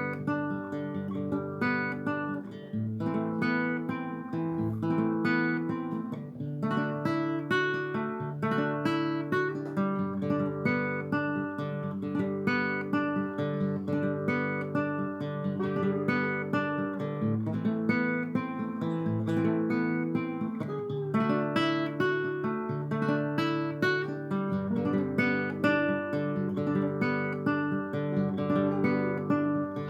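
Acoustic guitar strumming chords in a steady rhythm, instrumental with no singing.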